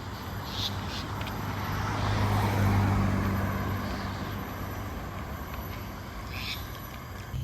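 A road vehicle passing by, its engine hum and tyre noise swelling to a peak a little before halfway through and then fading away. Brief high chirps sound near the start and near the end.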